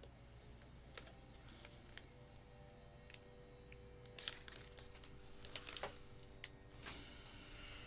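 Faint scattered clicks and light taps, more frequent in the second half, over a faint steady hum.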